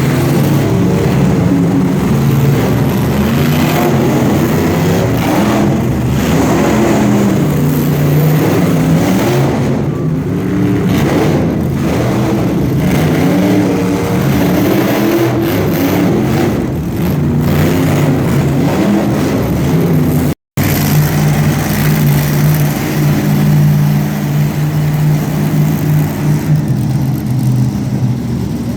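Monster truck engines revving hard, loud, the pitch climbing and dropping back over and over. The sound cuts out for an instant about twenty seconds in, then comes back on a more steadily held engine note.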